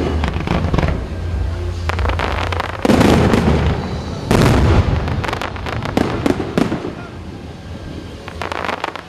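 Fireworks going off: a rapid series of booms and crackles, with two heavy blasts about three and four and a half seconds in, thinning out toward the end.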